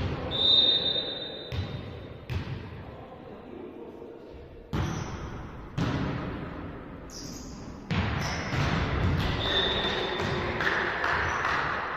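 Volleyball thudding several times, about a second apart. A referee's whistle gives a blast of about a second near the start and a shorter one late on.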